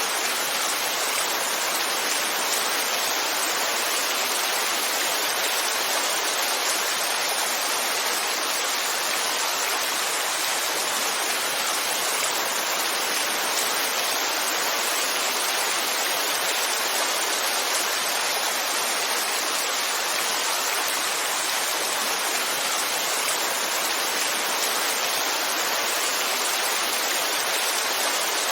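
Heavy rain falling: a steady, even hiss of rainfall that never lets up.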